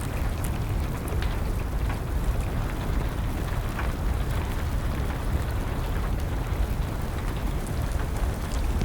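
Steady rain with a low rumble underneath, mixed with scattered sharp crackles and pops of a burning wood fire.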